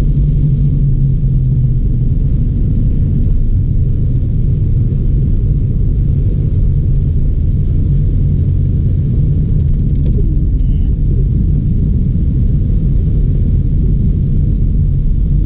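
Steady low rumble of a car driving, with no clear change throughout.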